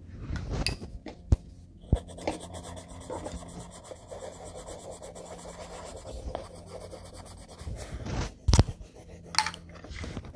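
Colouring strokes rubbing rapidly back and forth on paper, a steady scratchy scrubbing. A few sharp knocks come through, the loudest about eight and a half seconds in.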